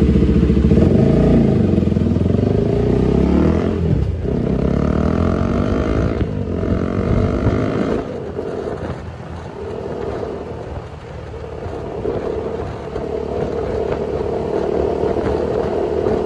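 Husqvarna motorcycle's single-cylinder engine pulling away hard from a stop, its pitch climbing and dropping back at the upshifts during the first eight seconds, then settling to a steadier cruise at highway speed.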